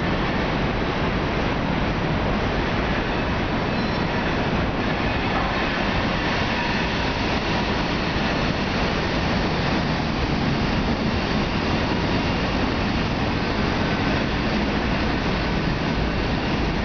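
Manifest freight train's cars rolling past on the tracks, a steady rolling noise.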